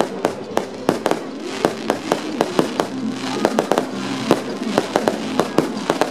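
Aerial fireworks going off in quick succession: a string of sharp bangs and cracks, several a second, with music playing underneath.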